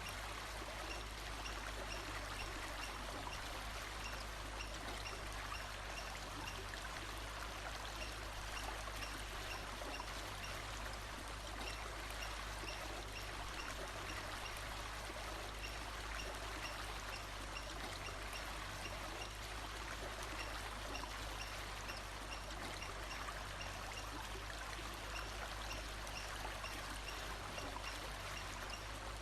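Steady running water, like a stream pouring and trickling. A faint high note repeats over it at a steady pace.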